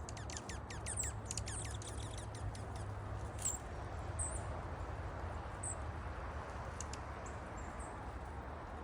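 Wild songbirds chirping: a quick run of high, downward-sliding chirps in the first two seconds, then scattered short high chirps, over a steady low background hum.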